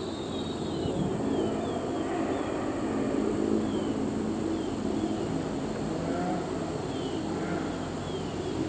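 Diesel-hauled MBTA commuter train approaching: a low rumble from the locomotive and wheels that slowly grows louder near the end. A steady high insect buzz runs underneath, with a few short high chirps.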